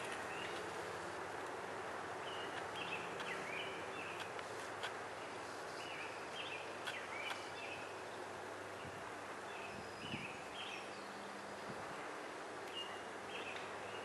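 Woodland birds calling in short, repeated chirps scattered throughout, over a steady background hiss, with a few faint clicks.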